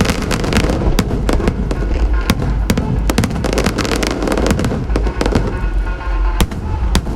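Aerial fireworks going off in quick succession: many sharp bangs and crackles over a continuous low rumble, with music playing along.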